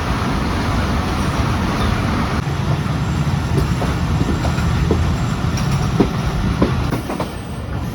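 Passenger train running on the rails, a steady rumble with scattered clicks of wheels over rail joints, easing off near the end as it slows into a station.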